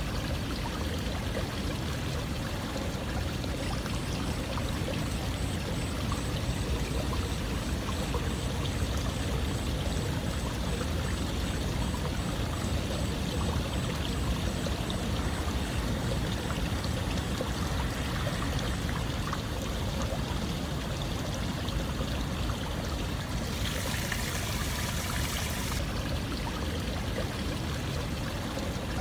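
Continuous running water: a steady, even rush with trickling detail. The hiss turns briefly brighter near the end.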